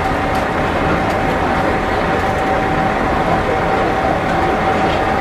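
Diesel railcar of the Kumamon train running steadily: a dense rumble with one constant high hum over it.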